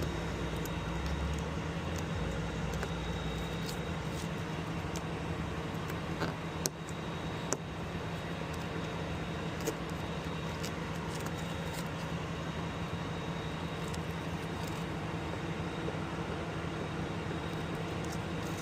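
A vehicle engine running steadily with a constant low hum, with a few faint clicks and taps over it.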